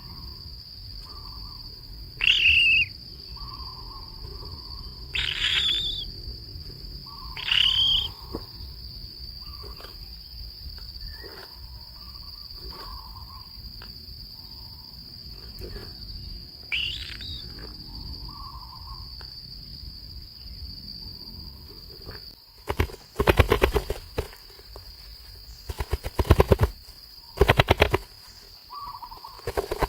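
Wild birds giving short, sharp calls every few seconds over a steady high insect drone. About three-quarters of the way in, loud bursts of rapid rattling pulses take over.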